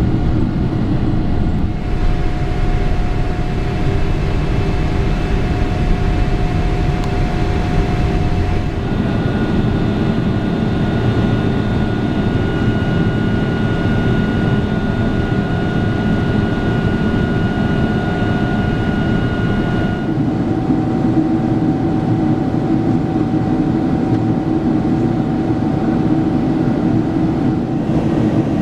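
Steady in-flight cabin noise of a Boeing 777-300ER: a deep rumble of the GE90 engines and airflow, with several steady whining tones that shift in pitch a few times.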